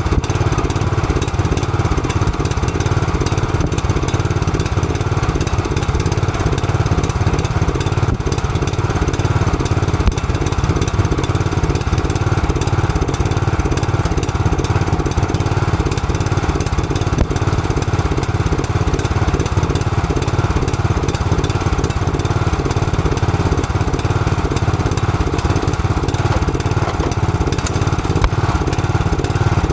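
John Deere riding lawn mower's engine running steadily at an even speed, with no revving up or down.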